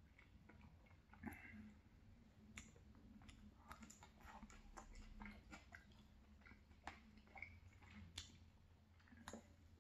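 Faint close-up chewing of saucy fried chicken, with many small wet mouth clicks and a few sharper clicks.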